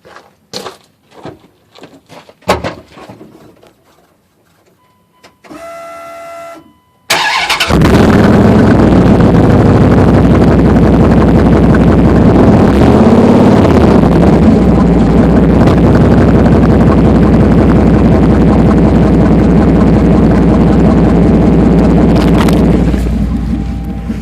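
Dodge Ram 1500's 360 V8 with straight pipes and no muffler, started about seven seconds in and then idling very loud and steady, with the pitch wavering briefly about halfway. Before it starts there are a few knocks and a short buzzing tone, and the engine sound eases off near the end.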